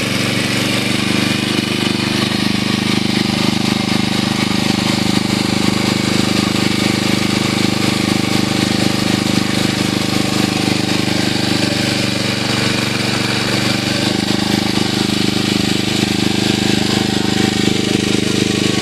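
A small engine running steadily, its note shifting slightly about fourteen seconds in.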